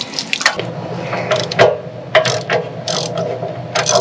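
Socket wrench ratcheting in irregular clicks as the RV water heater's anode rod is worked loose, over a steady low hum.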